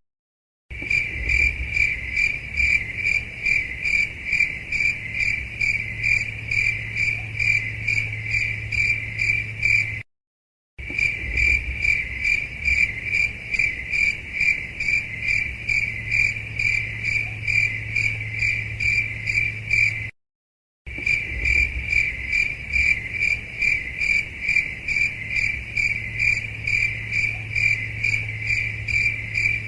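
Cricket chirping in an even, steady run of chirps, a few a second, over a faint low hum. The same stretch plays three times, with brief silent gaps at about 10 s and 20 s.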